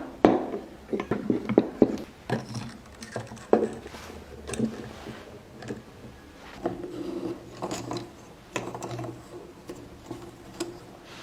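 Hand tools working wood: irregular scraping and rubbing strokes, broken by sharp knocks.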